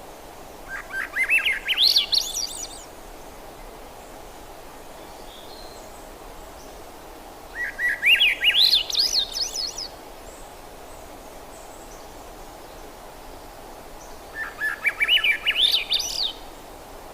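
A thrush singing three phrases about six seconds apart. Each phrase is a quick run of notes lasting about two seconds and climbing steadily in pitch, over a steady background hiss.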